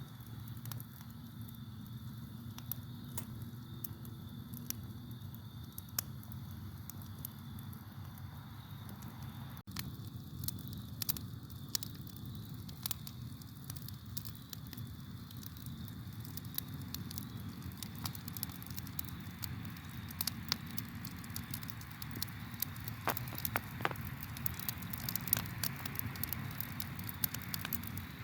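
Campfire burning with irregular wood crackles and pops over a low rumble of flames; the crackles come thicker in the second half. A faint, steady cricket chirring runs underneath.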